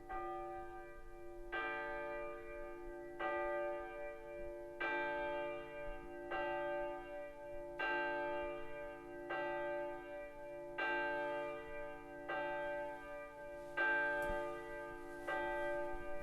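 A bell tolling steadily, about one stroke every second and a half, each stroke ringing on into the next.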